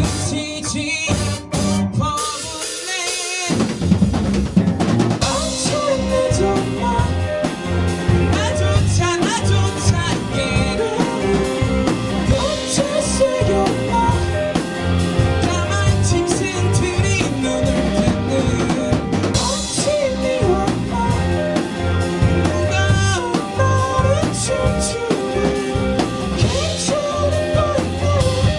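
Live rock band playing an instrumental passage: drum kit, bass and electric guitars, with wavering, bent lead lines over the drums. Near the start the low end briefly drops out, and the full band comes back in about three and a half seconds in.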